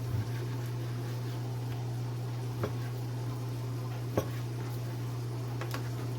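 A knife knocking against a cutting board a few times while raw chicken is cut into cubes, over a steady low hum.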